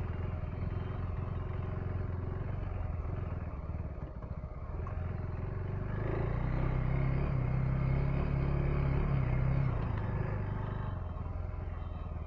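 KTM 390 Enduro R's single-cylinder engine running under way off-road. The engine note picks up and gets louder about halfway through, then eases back off near the end.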